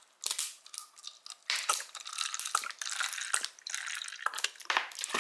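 Vinegar being poured from a bottle into a measuring cup: a splashing trickle of liquid that starts about a third of a second in and runs on with small dips.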